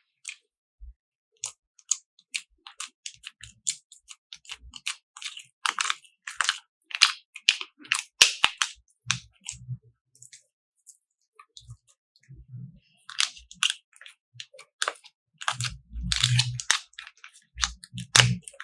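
Slime being squished and pressed by hand, giving an irregular run of sharp crackling clicks and pops with a few soft low thuds.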